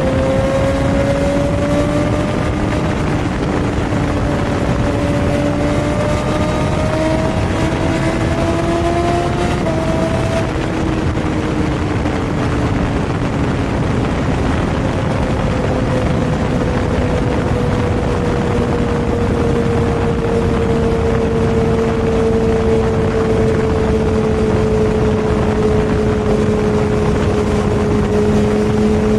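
A superbike's engine running at a steady highway cruise over heavy wind rush. Its note creeps up, drops about ten seconds in, then holds steady a little lower.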